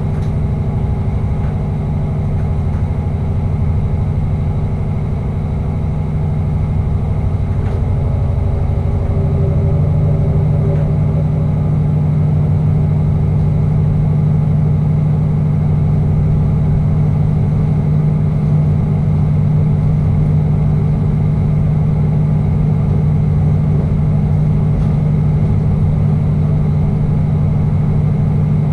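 Passenger train running through a tunnel, heard from the cab: a steady low mechanical drone, with a small shift in its pitch about nine seconds in.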